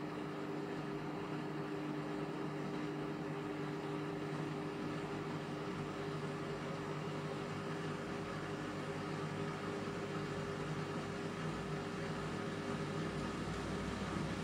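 Indesit MTWC71252WUK washing machine running mid-way through a Cotton 30 wash, a steady motor hum with no pauses or changes.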